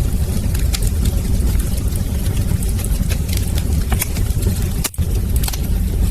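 Wood fire burning in a fireplace: a steady low roar with scattered sharp crackles and pops. The sound drops out for a moment about five seconds in.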